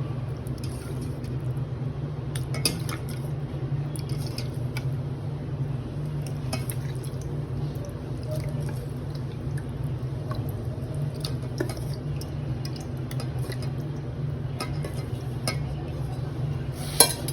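Scattered clinks of a spoon against a bowl with soft wet stirring, as boneless chicken pieces are added to and mixed into a thick yogurt-and-egg marinade, over a steady low hum. A louder cluster of clinks comes near the end.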